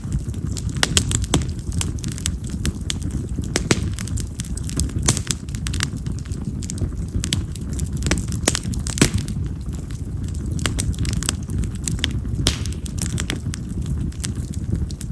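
Split wild cherry (yamazakura) firewood burning in an open fire, with frequent irregular sharp crackles and pops, some loud, over a steady low rumble. The loudest pop comes about nine seconds in.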